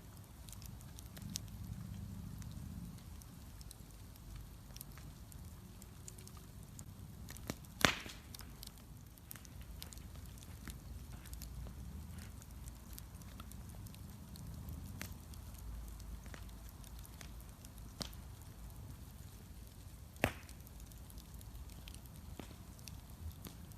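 Wood bonfire burning, crackling with scattered small snaps over a low rumble. Two loud sharp pops stand out, one about eight seconds in and one about twenty seconds in.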